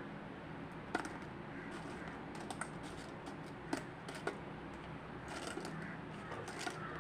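Scattered light clicks and taps, about a dozen, irregularly spaced over a faint steady background hum.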